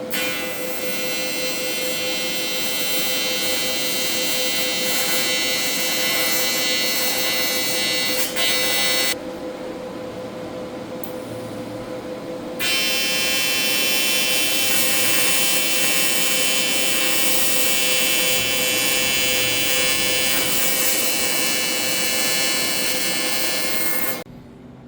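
AC TIG welding arc buzzing steadily, with a break of about three and a half seconds partway through. The arc stops shortly before the end. A steady hum carries on underneath, through the break as well.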